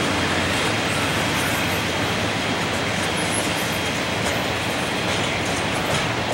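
Double-stack intermodal freight train's container-laden well cars rolling past: a steady, even noise of steel wheels on rail, with a thin steady high whine riding over it.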